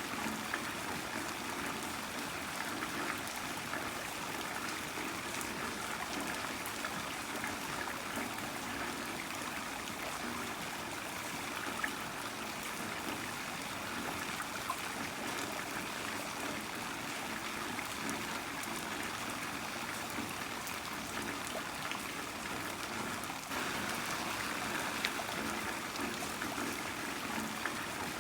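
Heavy rain falling steadily: a dense, even hiss of water with scattered sharper drop ticks, getting slightly louder about 23 seconds in.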